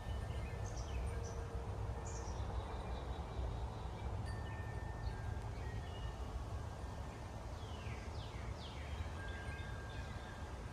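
Wind buffeting the microphone in a steady low rumble, with faint birds chirping and whistling over it and a few quick downward-sweeping calls near the end.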